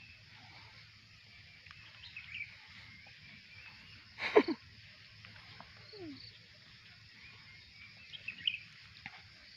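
Crickets and other insects chirring steadily, with small high chirps. About four seconds in, one loud, short call falls steeply in pitch, and a fainter falling call follows about two seconds later.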